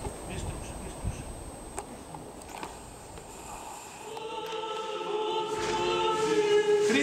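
Church room noise with a few small knocks. About four seconds in, an Orthodox church choir begins singing long held chant notes that grow steadily louder.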